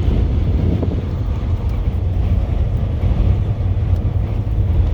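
Steady low rumble of a heavy-duty truck's engine and road noise, heard inside the cab while driving in strong wind.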